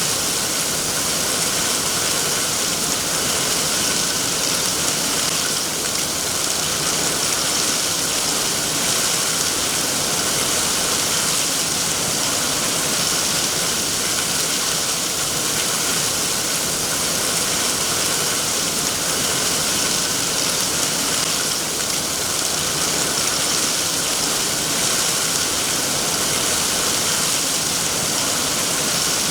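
Steady rain falling, an even hiss with no single drops or changes standing out.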